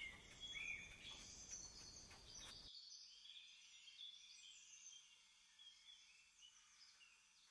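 Faint birdsong: small birds chirping, fading away.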